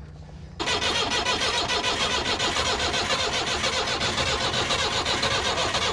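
Perkins 4.203 four-cylinder diesel engine in a forklift running with a loud, fast, even clatter. The sound jumps suddenly from a faint low hum to full level about half a second in.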